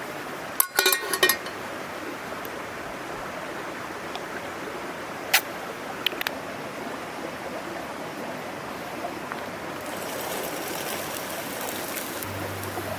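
Small mountain stream babbling steadily, with a quick cluster of sharp clicks about a second in and a few single clicks around the middle. A fine crackle joins near the end.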